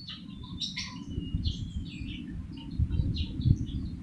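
A pet talking bird chirping and twittering in a quick run of short, high, warbling notes, over a steady low rumble.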